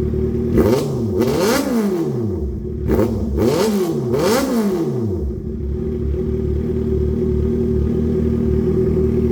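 Honda CB650R inline-four engine breathing through an aftermarket Ixil Extrem Carbon full exhaust, blipped several times in quick succession in the first few seconds, each rev rising and falling back, then settling into a steady idle.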